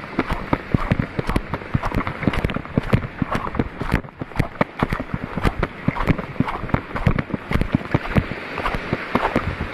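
Footsteps of someone walking, a dense irregular run of crunches and splashy pats.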